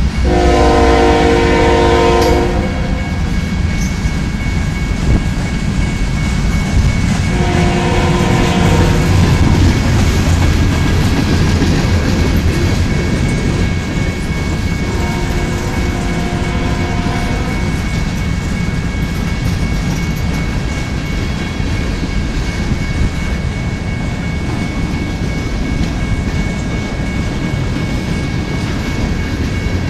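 Norfolk Southern freight train's cars rolling past, a continuous heavy rumble with clacking over the rail joints. The locomotives' multi-note horn, already past and heading away, sounds three long chords: near the start, about eight seconds in and about fifteen seconds in, each fainter than the last.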